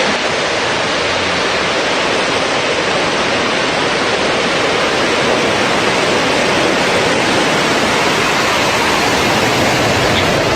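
Blue Origin New Shepard rocket's BE-3 engine just after liftoff, its exhaust making a loud, steady rushing noise with a deep rumble underneath.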